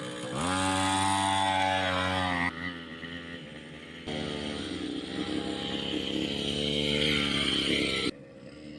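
Small motorbike engine revving: it climbs quickly, holds high and drops away abruptly about two and a half seconds in. It comes back at about four seconds, rises slowly in pitch and cuts off sharply near the end.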